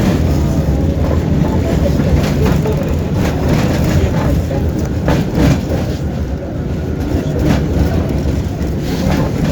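Tram running along its rails, heard from inside the passenger cabin: a steady low rumble with a few irregular sharp clacks.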